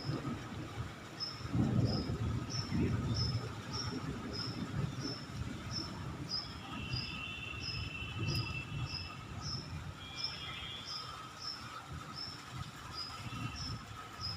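Outdoor ambience: a high, short chirp repeating evenly, about three every two seconds, over irregular low rumbling.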